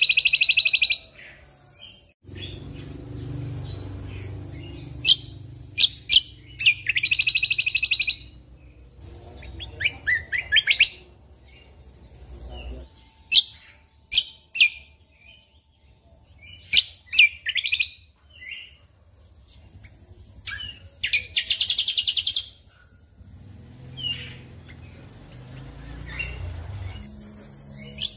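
Cucak kombo (kecial kombo) singing: repeated fast trilled phrases broken by sharp single notes, over a low background rumble at times.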